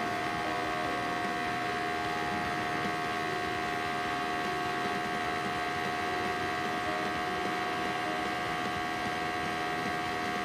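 Honda CBR250RR engine running through a custom aftermarket exhaust at a steady speed, a constant droning note with no revving.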